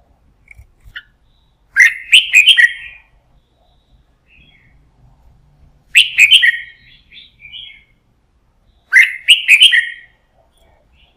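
Red-whiskered bulbul singing: three loud, short song phrases about four seconds apart, with softer single notes between them.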